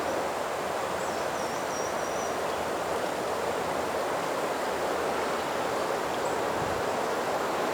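Steady rushing outdoor background noise in the woods, with a few faint high bird chirps about a second in.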